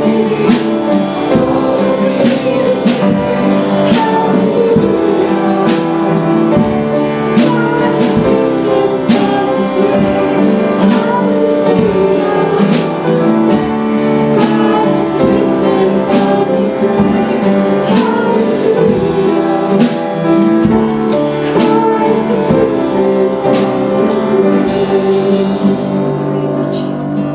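Live church worship band playing a song with singing, a steady drum and cymbal beat under sustained keys and guitar. It eases off slightly near the end.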